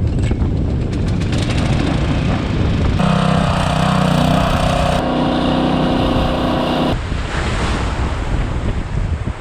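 Strong wind buffeting the microphone with a low rumble. In the middle a steady multi-toned hum starts abruptly, shifts partway and cuts off suddenly after about four seconds.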